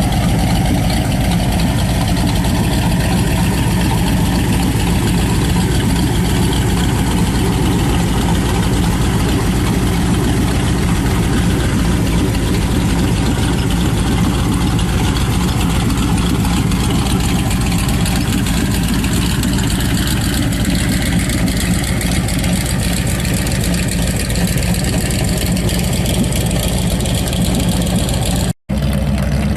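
Big motorcycle engine of a custom trike running steadily at idle. The sound cuts out for a split second near the end, then resumes.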